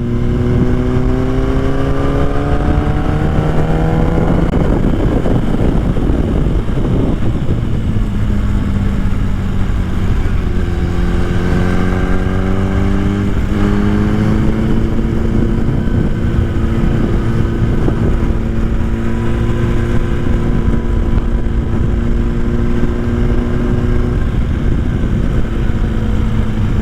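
Motorcycle engine heard from the rider's seat, accelerating: its pitch climbs for about four seconds, drops at a gear change, climbs again, then holds steady at cruising speed. Steady wind rush runs underneath.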